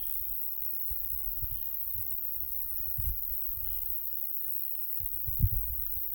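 Wind buffeting the microphone in uneven low rumbles, with a stronger gust about five seconds in. Faint short chirps repeat every second or so behind it.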